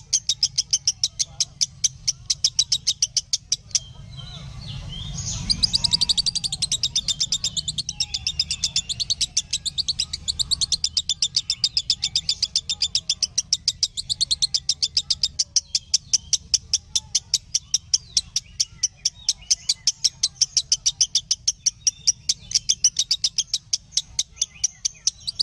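Lovebird chirping in the short, repeated 'minor' style: a steady run of brief high chirps, about four or five a second. There is a short break about four seconds in, followed by a denser flurry of chirps.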